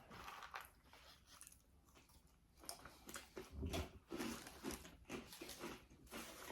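Close-miked chewing and biting into a toasted sub sandwich: an irregular run of short, faint mouth sounds.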